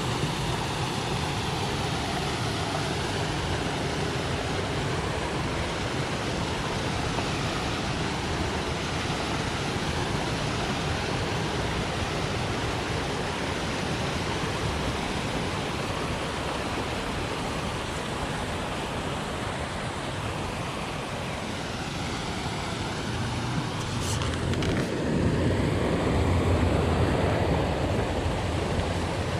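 Small waterfall: water pouring and splashing in a steady, even rush. Near the end there is a brief knock, and the low rumble gets louder.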